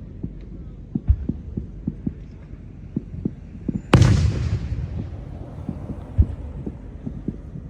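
Fireworks going off: a scatter of dull distant booms throughout, and one loud burst about four seconds in that trails off in a long fading rumble.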